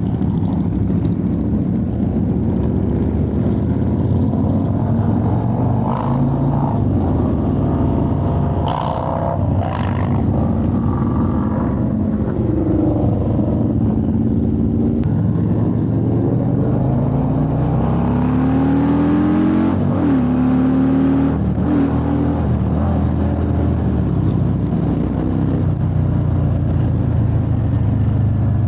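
Motorcycle engine running steadily under way, with rushing wind noise. Its pitch rises several times as it speeds up, then drops back between gears, most clearly past the middle.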